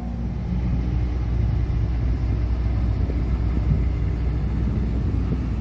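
A car running, heard as a steady low rumble.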